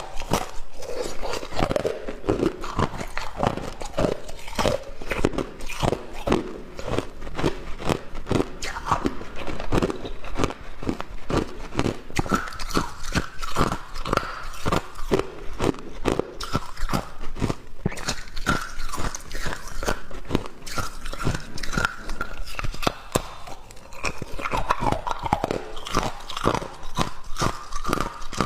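Hard, clear ice being bitten and chewed close to the microphone: a steady run of sharp crunching cracks, about three or four a second.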